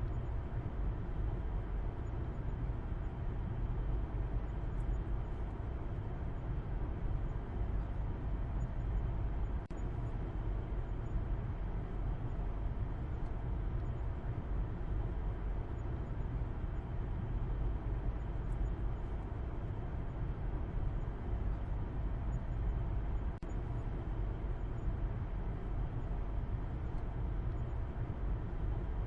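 Steady low rumble of a car driving: road and engine noise held at an even level.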